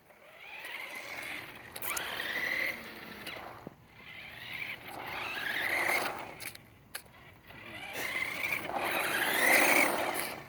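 Remote-control toy truck's electric motor whining as it speeds up in three surges, the whine rising in pitch with each one.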